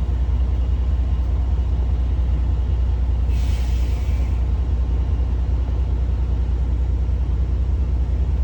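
Loud, steady low rumble, with a brief hiss about three seconds in.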